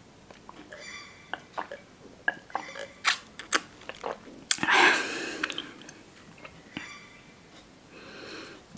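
Close-miked eating sounds: chewing with scattered sharp mouth clicks, and a longer, louder rushing sound about five seconds in.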